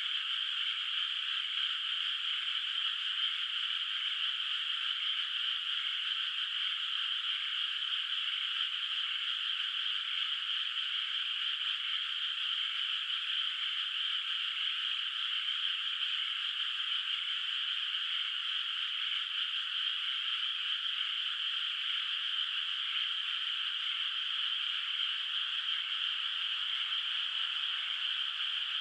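Dense, steady chorus of many frogs calling together, the calls merging into one continuous trilling din without pause.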